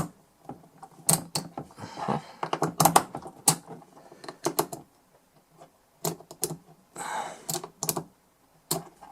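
Irregular sharp clicks and small clatters of hands handling the DI box and small tools on a workbench, with a couple of brief soft rustles.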